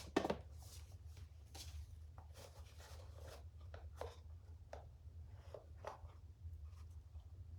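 A box and its packaging being handled: irregular soft rubbing, rustling and light knocks as a small wax candle is fitted back into its compartment, loudest just after the start. A faint steady low hum lies underneath.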